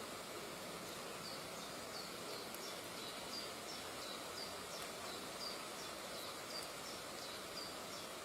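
A bird giving repeated short, high, down-slurred chirps, about two a second, from about a second in to near the end, over a steady hiss.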